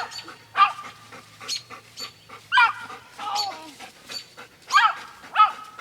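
Dog giving a string of short, high-pitched excited yelps and whines at uneven intervals.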